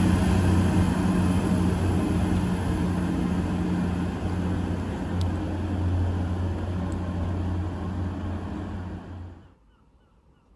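Hitachi Class 800-series Intercity Express Train running along the platform: a steady rumble of the train on the rails with a low hum, easing slowly as it draws away. It cuts off sharply about nine and a half seconds in, leaving faint bird chirps.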